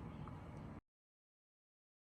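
Faint room tone with a steady low hum that cuts off abruptly to dead silence a little under a second in.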